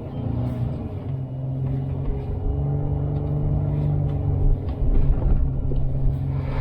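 An off-road truck's engine pulling steadily under load at low speed while the truck pushes through deep snow, with a few light knocks over it.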